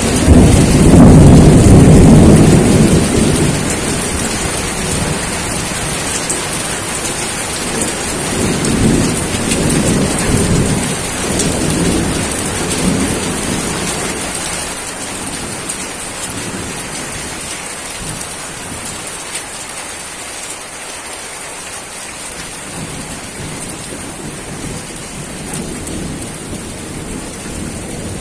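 Steady heavy rain with thunder: a loud rolling rumble at the start, weaker rumbles a little later, then the thunder dies away, leaving the hiss of the rain.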